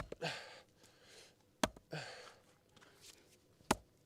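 Axe striking a log three times, about two seconds apart, splitting firewood, with heavy breathing between the strikes.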